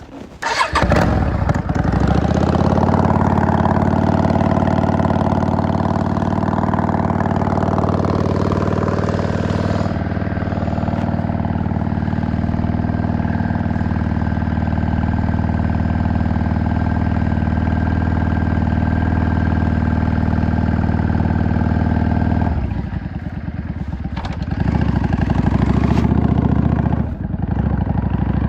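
V-twin cruiser motorcycle engine starting up about a second in, then running at a steady idle. Its sound drops for a couple of seconds late on and then comes back up.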